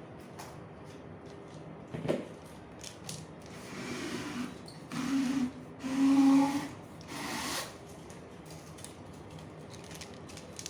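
Washing-machine packaging being worked open by hand: a sharp knock about two seconds in, then several rough scraping pulls with a squeaky edge. The loudest pull comes around six seconds in.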